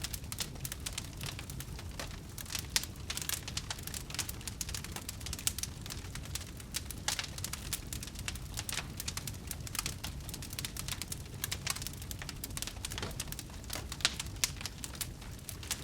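Wood fire crackling in a fireplace: a dense, irregular run of sharp snaps and pops over a low, steady rumble.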